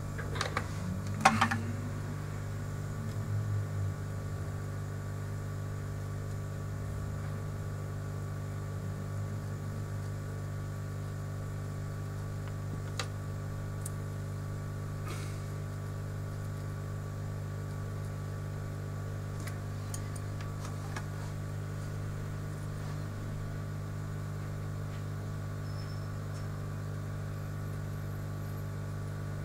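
A steady low machine hum at a constant level, with a few light clicks scattered through it.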